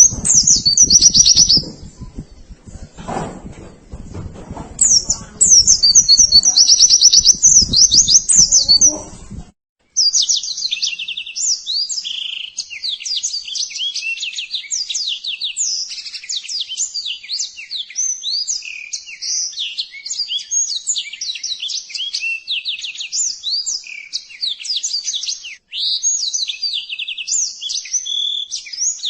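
White-eyes (pleci) singing fast, high-pitched chirping trills and twitters, over a low background rumble for the first third or so; the rumble then cuts off abruptly and clean, dense song continues.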